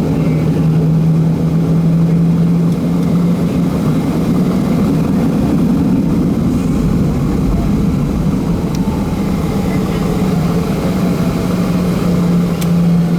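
Steady cabin noise of a Boeing 737-700 with its engines running: a continuous low drone over a broad rush of air, the drone easing in the middle and strengthening again near the end.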